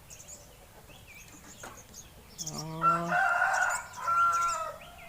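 A rooster crowing once: a loud drawn-out crow of about two seconds, starting about halfway through, with faint small-bird chirps around it.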